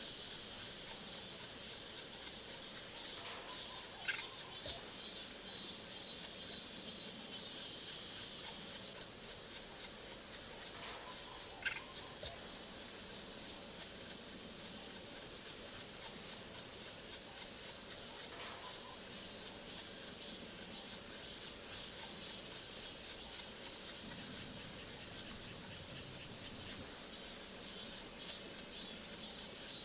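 Steady, fast-pulsing insect chorus of crickets or cicadas, with two sharp knocks about four and twelve seconds in.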